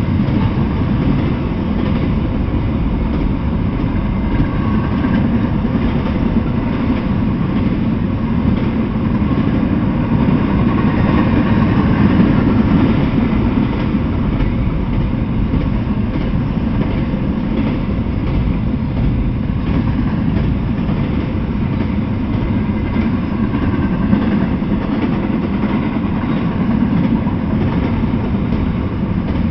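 Double-stack intermodal freight train rolling past: steel wheels on the rails making a steady, low rolling noise as the well cars go by, with no pauses or sudden knocks.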